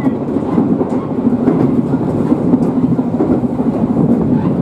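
Shizuoka Railway 1000 series electric train running, heard from inside the car: a steady rumble of wheels on rail with faint light clicks over it.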